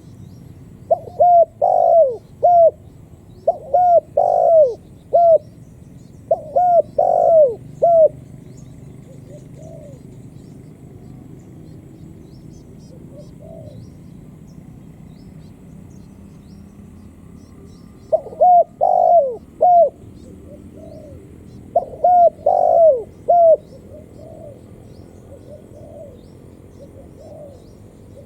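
Spotted dove cooing in repeated phrases of several coos: three phrases in the first eight seconds, then two more starting about 18 seconds in, with fainter coos in between.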